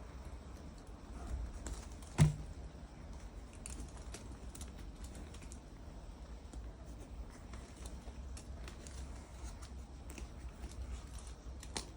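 Light scattered clicks and taps of hands and tools working on a leather bag, with one sharp knock a little over two seconds in.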